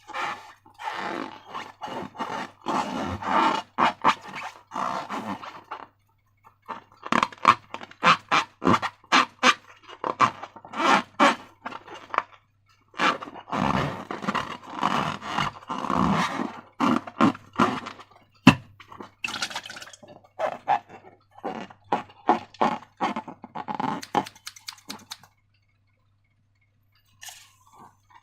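Slime being squished and worked by hand: runs of sticky, wet squelches and small pops in clusters, stopping about 25 seconds in. A faint low hum runs underneath.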